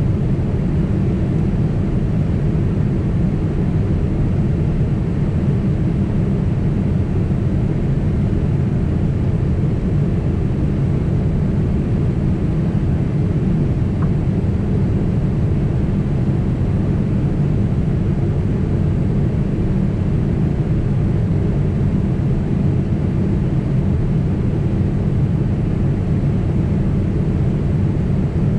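Boeing 767 airliner in flight, heard from inside the passenger cabin: a steady, unchanging low rumble of the engines and airflow.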